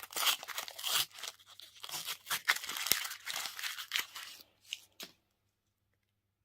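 Candy wrapper being torn open and crinkled: a dense run of crackling rustles that stops abruptly about five seconds in.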